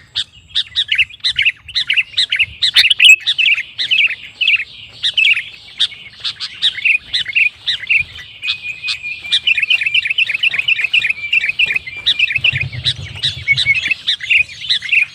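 Sooty-headed bulbul (kutilang) singing energetically: a fast, unbroken run of short chirping notes, steadier and more drawn-out for a few seconds midway.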